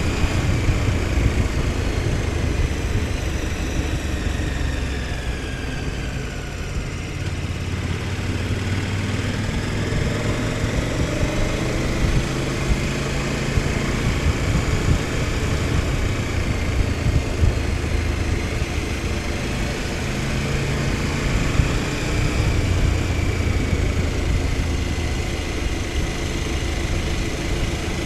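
KTM 1290 Super Adventure S's V-twin engine running under way: its note falls as the bike slows about five seconds in, then rises again as it accelerates, over a steady rush of wind and road noise.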